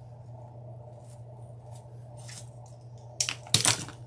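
Rustling and crinkling of craft materials being handled, faint at first, with a louder burst of crackling about three seconds in, over a steady low hum.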